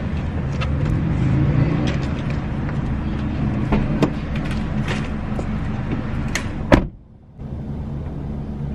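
A car engine running steadily, heard from inside the cabin, with a few sharp clicks and knocks. The sound cuts out briefly about seven seconds in, then the engine rumble returns.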